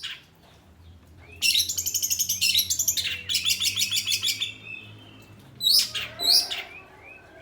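Oriental magpie-robin (kacer) singing: a fast, high run of repeated notes, about ten a second, lasting about three seconds, then two loud short calls near the end.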